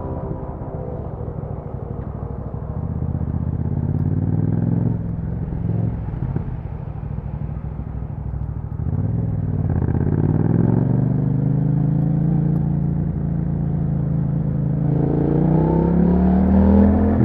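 Yamaha MT-07's 689 cc parallel-twin running through an Akrapovic exhaust while riding. It pulls steadily, its pitch climbing about nine seconds in and again near the end, then dropping sharply at a gear change.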